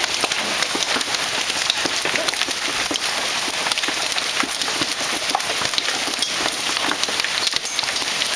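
Heavy hailstorm: large hailstones pelting down in a dense, continuous clatter of countless individual impacts, without a break.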